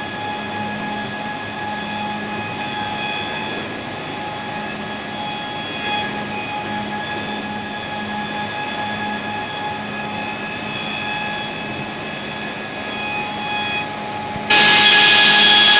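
Quadro 516 four-sided planer-moulder running, a steady machine hum under a high whine from the spinning cutter heads. Near the end the sound suddenly becomes much louder and harsher.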